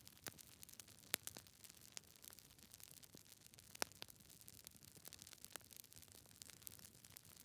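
Wood fire crackling in a fireplace: burning logs giving off irregular sharp pops and snaps over a faint hiss, with louder pops about a second in and near four seconds.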